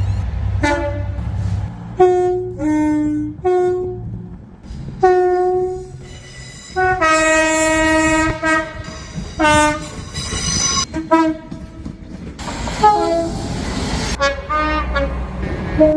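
A run of train horns and whistles, one after another, each a short blast of its own pitch, with one longer blast a little before the middle. A low rumble lies under the first blasts, and a rushing noise comes in about three quarters of the way through.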